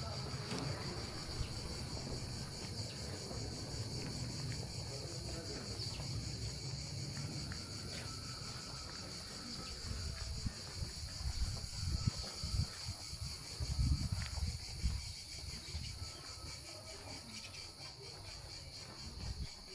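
Crickets chirring steadily in a continuous high-pitched drone, with a low uneven rumble underneath that grows louder about ten to fifteen seconds in.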